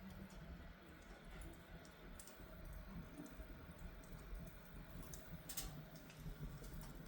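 Wood fire burning in a fireplace, crackling faintly with a few sharp pops, the loudest about five and a half seconds in.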